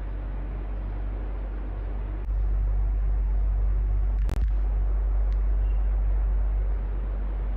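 Electric fan running steadily with a strong low hum under an even whooshing noise. It gets suddenly louder about two seconds in, and there is a single click a little past the middle.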